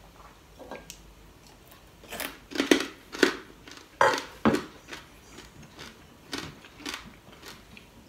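Close eating sounds: a run of short, wet clicks and smacks of chewing with the mouth, loudest in the middle.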